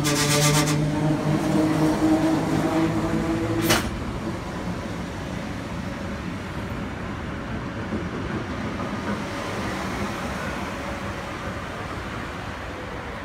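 Heritage red electric suburban train running through a station at speed. A loud, steady pitched drone cuts off abruptly about four seconds in, and the carriages then roll past on the rails with a quieter, even rumble.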